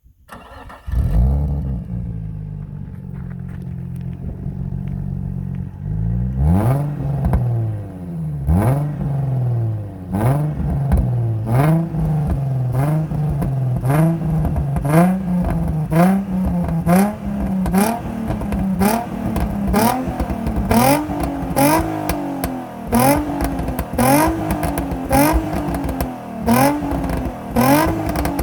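Nissan 350Z's 3.5-litre V6 breathing through an Invidia Q300 cat-back exhaust: it fires up, idles steadily for a few seconds, then is blipped repeatedly, about once a second, each rev rising and falling quickly.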